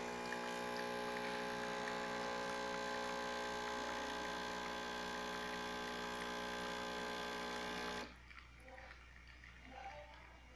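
Capsule espresso machine's pump buzzing steadily as it brews a small espresso, cutting off suddenly about eight seconds in. The brew runs normally, filling about half the espresso cup.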